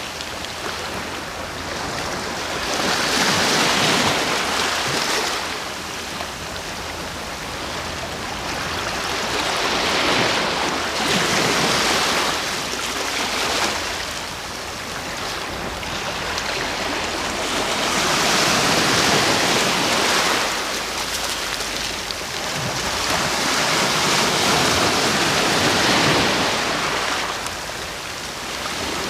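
Ocean waves breaking and washing on the shore, a steady hiss of surf that swells and ebbs every several seconds as each wave comes in and draws back.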